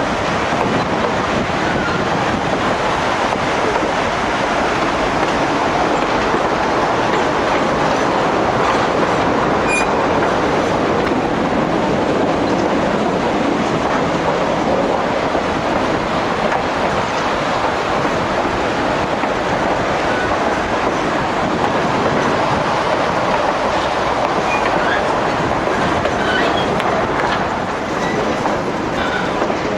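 Durango & Silverton narrow gauge train running along the track, a steady loud rumble of wheels on rails with clicking over the rail joints and a few faint brief squeals.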